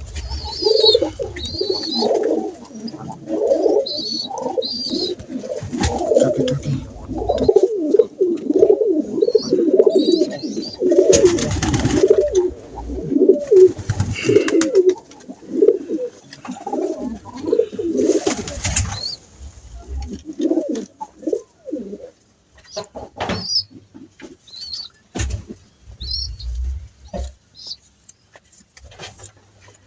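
A large flock of doves cooing, many overlapping coos at once, thinning out toward the end. Thin high chirps come and go, and two short rushing noises fall around the middle.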